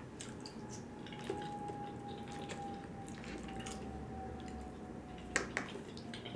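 Faint wet mouth sounds of someone eating: chewing with small smacks and clicks, a louder smack about five seconds in.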